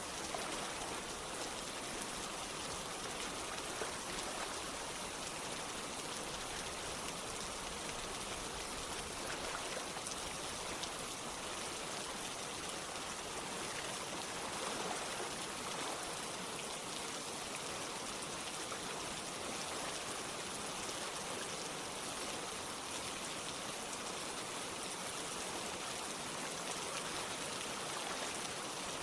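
Steady rain falling together with running water, an even, unbroken hiss of drops and flow.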